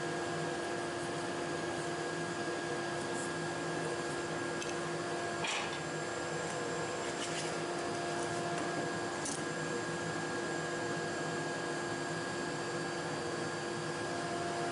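Table saw running steadily at speed, an even motor hum and blade whir, with a few faint short clicks and scrapes around the middle.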